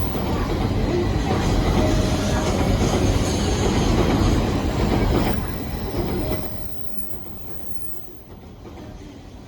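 A train running past on the rails, a loud rumble with wheel and rail noise that dies away about six and a half seconds in.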